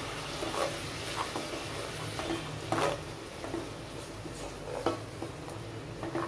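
Beef pieces and spice mix sizzling in a pot as they are sautéed, a silicone spatula stirring and turning them, with a few short scrapes and light knocks against the pot.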